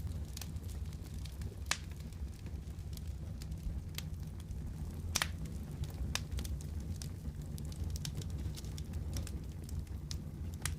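Wood fire crackling in a fireplace: irregular sharp pops and snaps over a steady low rumble, the loudest pop about five seconds in.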